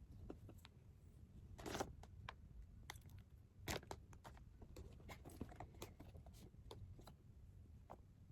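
Hands handling toy packaging: a brief rustle about a second and a half in, then scattered small clicks and taps, the loudest about three and a half seconds in, over a faint low room hum.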